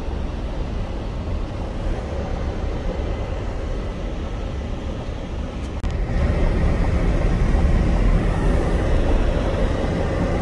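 Road noise inside a moving vehicle: a steady low rumble of engine and tyres. It drops out briefly about six seconds in and comes back a little louder.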